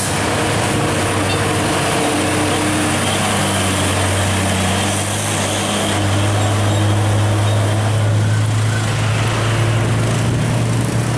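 Heavy diesel truck-and-trailer engine running with a low steady drone, growing louder from about halfway through.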